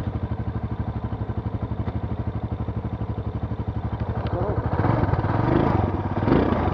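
ATV engine idling with an even, fast putter, then revved up about five seconds in, running louder and uneven.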